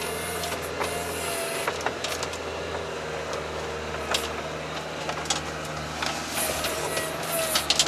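Engine of the Veter all-terrain vehicle running steadily under load as it climbs a snowy slope, with scattered knocks and clicks from the body and running gear.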